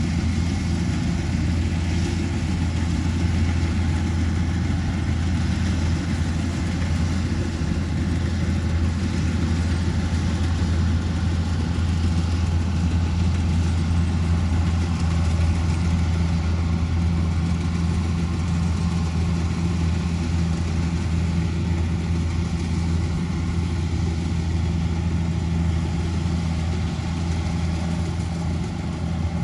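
Kubota DC-105X combine harvester's diesel engine running steadily at an even speed, with a deep hum.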